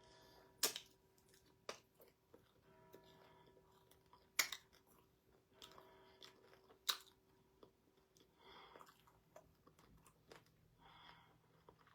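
Close-miked chewing and mouth sounds of someone eating pounded yam with ogbono soup and bushmeat, broken by a few sharp clicks.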